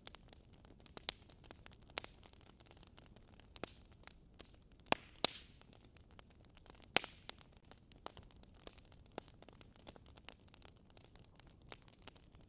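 Wood fire in a fireplace crackling: irregular sharp pops and snaps over a faint steady hiss, the loudest pops about five and seven seconds in.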